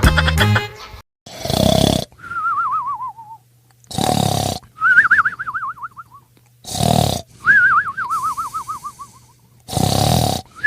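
Cartoon snoring sound effect: a loud rasping snore followed by a warbling whistle that falls in pitch, repeated four times about every three seconds.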